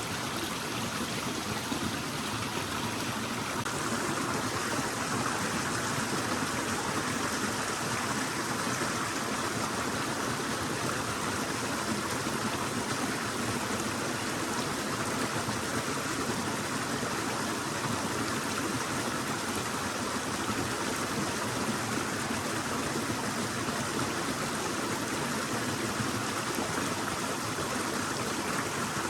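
Stream flowing: a steady, continuous rush of water, a little louder after about four seconds.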